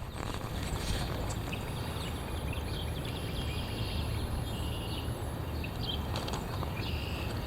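Strong wind blowing on the microphone: a steady, low rumbling buffet.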